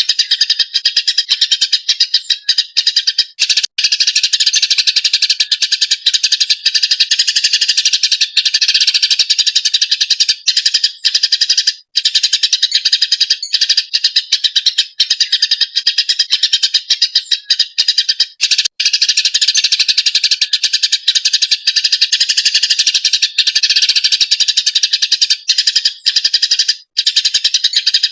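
Eurasian tree sparrow chattering fast and nonstop, a dense run of harsh, high chirps with only a few brief breaks.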